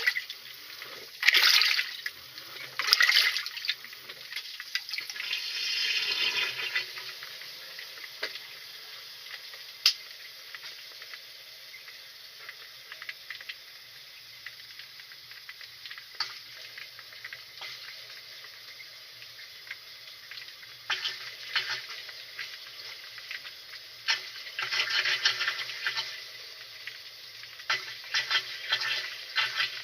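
Water splashing and sloshing in a washing machine tub during a tub clean, in several short bursts at the start and again near the end, with a quieter trickle between.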